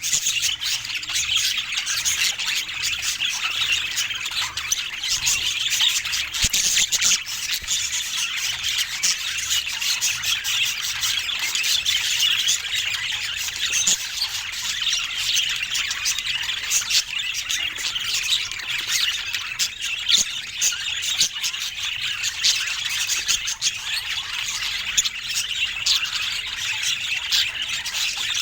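Budgerigars chattering continuously, a dense mix of warbling chirps and squawks with many short clicks.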